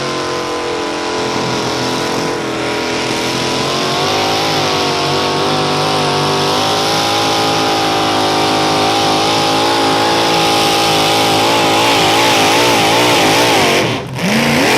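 Mini modified pulling tractor's engine at full throttle under load during a pull, its pitch holding high and slowly climbing. Near the end the revs waver rapidly up and down, then drop sharply for a moment and rise again.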